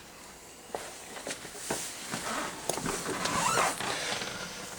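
Scattered light clicks and knocks with some rustling, the sounds of someone moving about and handling things.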